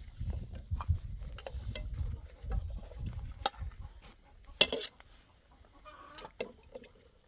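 Chickens clucking, with short sharp clucks scattered through and faint calls near the end. A low rumble runs under the first three seconds, and one louder sharp knock comes about four and a half seconds in.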